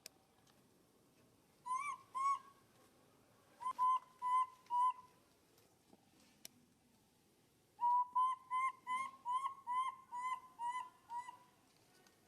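A bird calling in runs of short, clear whistled notes, each with a slight upward hook: two notes, then four, then a quicker run of about ten.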